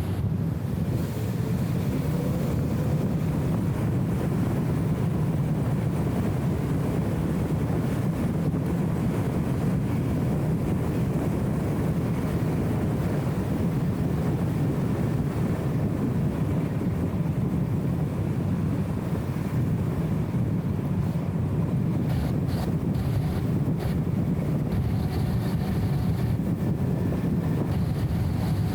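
BMW E34 M5 Touring driving at a steady pace: an even, low rumble of engine and road noise, dulled by the camera's wind filter.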